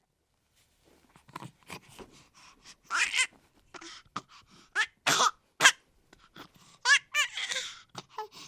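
A baby's short wordless vocal sounds starting about a second in: breathy gasps and little grunts mixed with brief high-pitched squeals.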